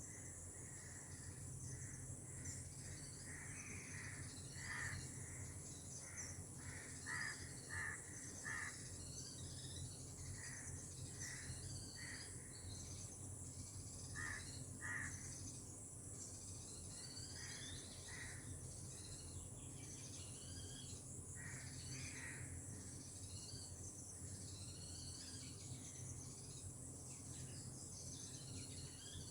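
Outdoor tropical ambience: a steady high insect drone with many short bird calls and chirps repeating throughout, over a faint low steady rumble.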